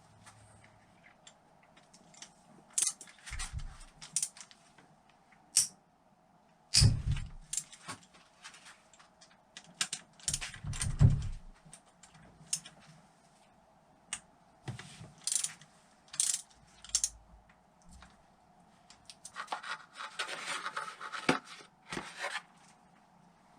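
Metal hand tools and parts of a disassembled Honda XL600 single-cylinder engine being handled on a bench: scattered clicks, clinks and knocks, with two heavier knocks in the first half and a stretch of scraping near the end, as a rust-stuck part is worked free.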